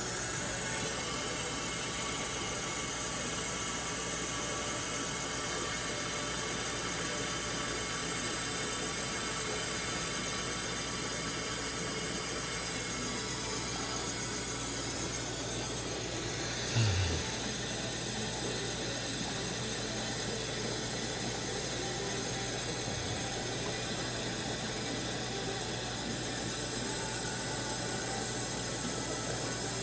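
Steady hum and hiss of aquarium filters and air pumps, with a brief low thump about 17 seconds in.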